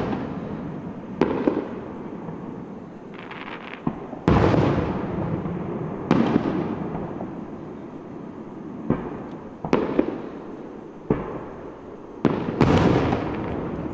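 Aerial fireworks shells bursting: a string of about ten sharp booms, each followed by a fading echo. The biggest comes about four seconds in, and another large pair comes near the end.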